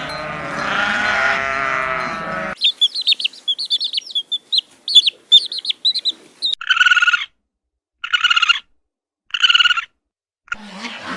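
A run of edited animal calls: overlapping pitched calls that cut off sharply, then about four seconds of rapid high bird chirping, then three identical short calls about a second and a half apart.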